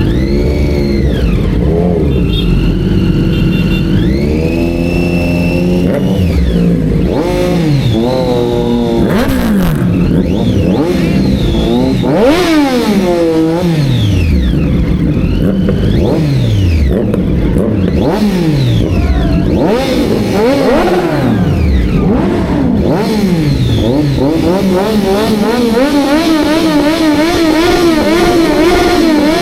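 Several superbike engines revving again and again, their pitch climbing and falling in overlapping sweeps. Near the end one engine rises and holds at a high steady rev.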